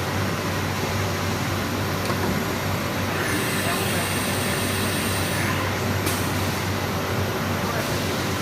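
CNC nesting machining centre running, a steady machine noise with a low hum. A high whine comes in about three seconds in and lasts some two seconds.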